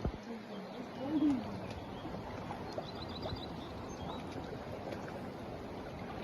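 Outdoor ambience: a steady background hiss with a bird calling, a low rising-and-falling call about a second in and a quick run of about five high chirps about three seconds in.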